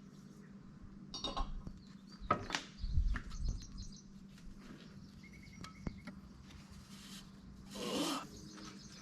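Scattered clinks and knocks of hand tools and engine parts being handled, with a dull thump about three seconds in and a short rustling scrape near the end, over a faint steady hum.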